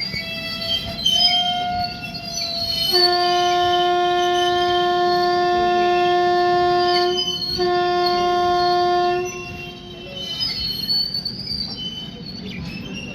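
Train horn sounding two long steady blasts, the first about four seconds, the second about two, over the rumble of a moving train. High-pitched wheel squeal is heard before and after the horn.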